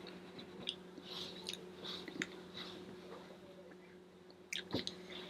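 A person chewing a mouthful of food close to the microphone, with small wet clicks and soft crunches, and a sharper click about half a second before the end. A steady low hum runs underneath.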